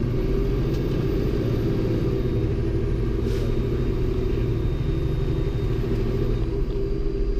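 Fire engine's diesel engine and road noise making a steady low drone, with a brief hiss about three seconds in.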